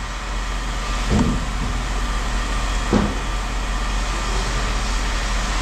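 Two knocks of scrap metal landing in a bin, about a second in and about three seconds in, over a steady low vehicle engine rumble.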